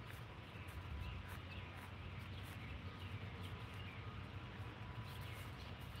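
Faint birds chirping over a low, steady rumble of outdoor background noise.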